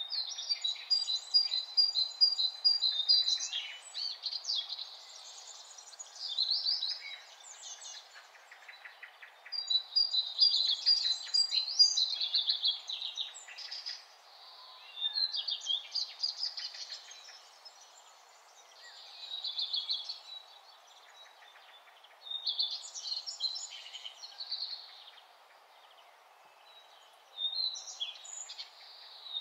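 Birdsong: bouts of high chirping and trilled phrases, each a few seconds long, returning every few seconds with quieter gaps between, over a faint steady background hiss.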